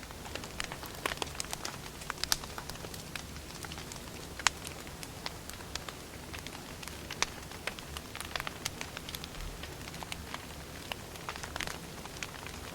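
Wood fire burning: burning logs crackle and pop in irregular sharp snaps over a steady low hiss.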